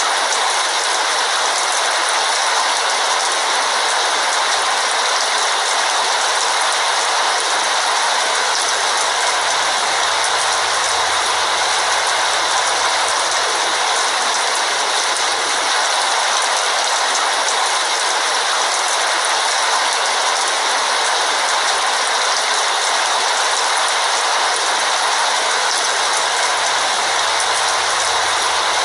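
Heavy rain falling steadily, an even hiss that never lets up.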